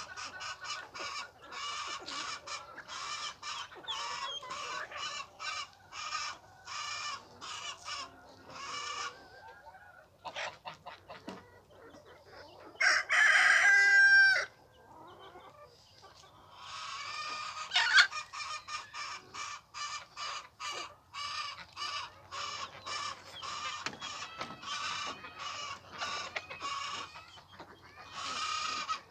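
Chickens clucking in rapid, repeated short calls, with a rooster crowing once loudly, held for about a second and a half, a little before halfway through.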